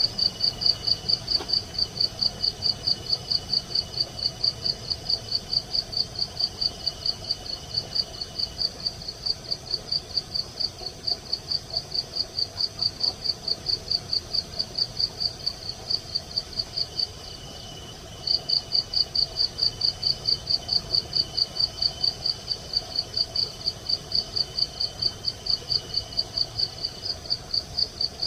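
Insect chirping in an even, rapid rhythm of about four to five high pulses a second, breaking off for about a second past the halfway point. A fainter, steady, slightly lower-pitched insect trill runs beneath it.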